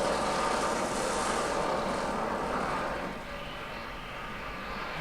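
A film soundtrack played over the hall loudspeakers: a dense rushing noise of a large flock of crows flying, with no clear voices. It drops somewhat about three seconds in.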